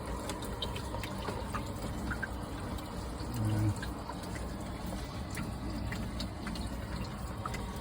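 Water running and trickling from a leaking faucet, with scattered drips. A short voice sound comes about three and a half seconds in.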